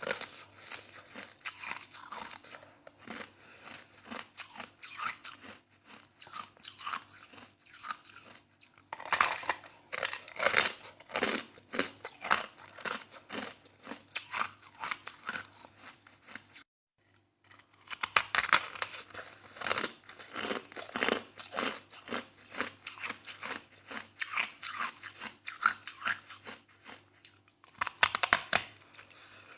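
Person chewing crushed soft ice close to the microphone, a steady run of crunches, with louder bursts of crunching about nine, eighteen and twenty-eight seconds in as fresh mouthfuls are bitten. The sound drops out completely for about a second shortly before the second burst.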